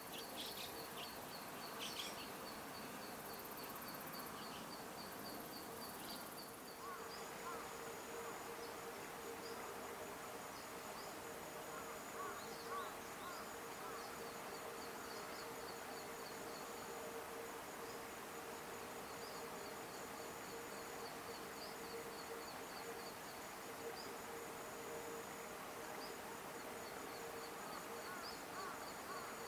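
Outdoor field ambience: runs of rapid, high-pitched ticking calls lasting a few seconds each, over a steady low hum. A faint thin whine joins after a few seconds, with a few scattered soft chirps.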